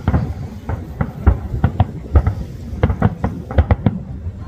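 Aerial fireworks going off in quick, irregular succession: several sharp bangs and crackles a second.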